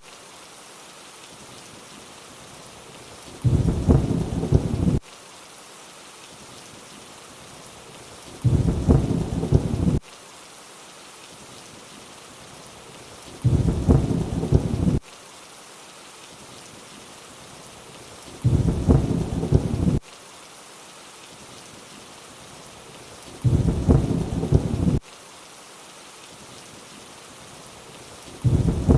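Steady rainfall hiss with a low thunder rumble about every five seconds. Each rumble lasts about a second and a half and cuts off abruptly, like one short thunder sample looped over the rain.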